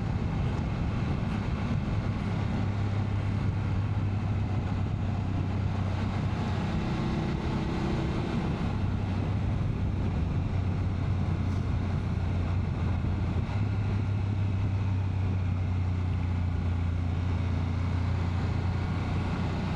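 BMW F850 GS Adventure motorcycle's parallel-twin engine running steadily at cruising speed, with a constant rush of wind noise.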